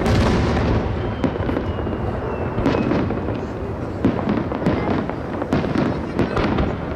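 Aerial fireworks shells bursting. A loud boom right at the start rolls on as a long rumble, then a string of sharper bangs and crackles follows about every half second to a second.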